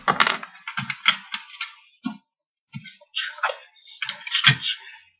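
Plastic Lego pieces clicking and rattling as they are handled and fitted together, in irregular clusters of clicks with a few duller knocks.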